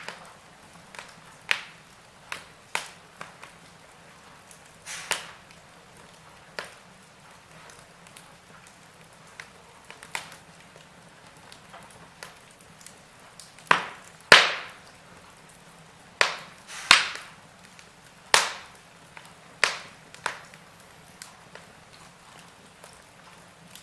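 Wood fire in a fireplace crackling, with irregular sharp pops over a faint steady hiss; the loudest pops come about fourteen and seventeen seconds in.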